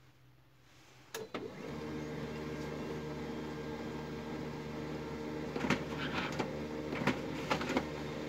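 HP LaserJet 3055 MFP laser printer starting a test print: a click about a second in, then its drive motor and gear train run with a steady hum, with several sharp clicks in the second half as paper is picked and fed. It runs without gear noise, its jammed tray pickup and faulty solenoid now fixed.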